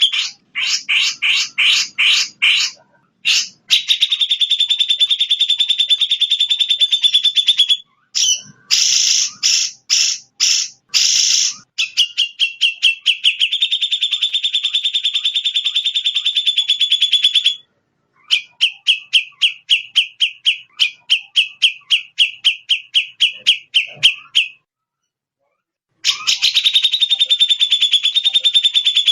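Recorded songbird song played back as a masteran tutor track: long runs of fast, high, chattering trills and rapid repeated chips, broken by short pauses, with a silence of about a second and a half near the end.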